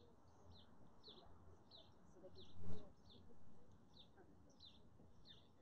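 A small bird chirping over and over, short down-slurred chirps about one and a half times a second. A brief low thump about halfway through.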